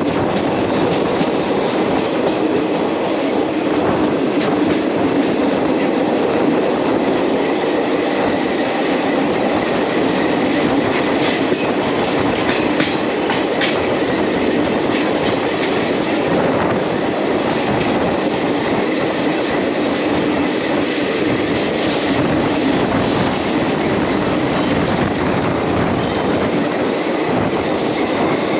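Express passenger train's coaches running along the track, heard from on board at the coach side: a steady, loud rumble of wheels on rails with scattered clicks as the wheels cross rail joints and points, more of them in the middle of the stretch.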